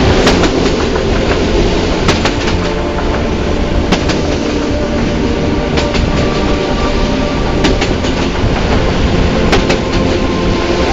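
Passenger train running along the track: a steady rumble with a few scattered sharp clicks of the wheels over rail joints.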